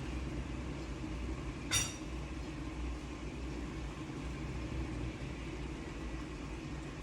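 Steady low kitchen hum with one ringing metal clink, a utensil striking a cooking pot, a little under two seconds in.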